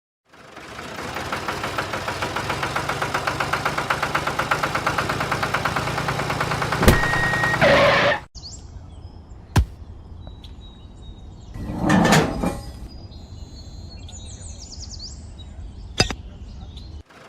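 Small engine running with a rapid, even pulse, cutting off abruptly about eight seconds in. After that it is quieter, with a few sharp clicks, a short rustle and faint bird chirps.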